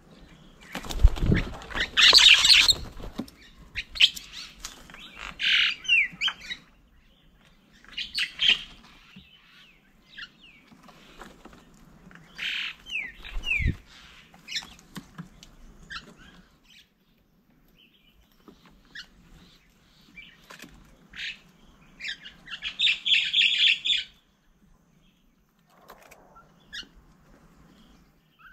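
Birds calling in short, separate bursts of chirps and squawks, some sliding quickly in pitch, with quiet gaps between them. There is a low thump near the start and another about halfway through.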